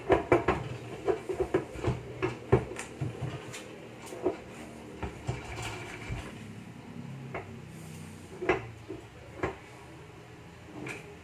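Metal tools and engine parts clinking and knocking while a Honda engine is split apart, many quick knocks at first, then scattered ones, with two louder knocks near the end.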